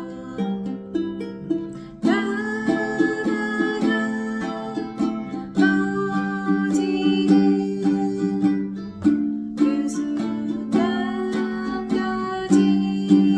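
Ukulele playing a fingerpicked arpeggio in waltz time, its plucked notes ringing into one another, with chord changes every few seconds.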